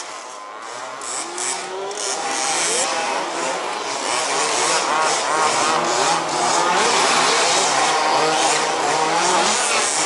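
Several 1/5-scale RC buggies' small two-stroke petrol engines racing, their pitches rising and falling and overlapping as they rev and ease off; the sound grows louder about two seconds in.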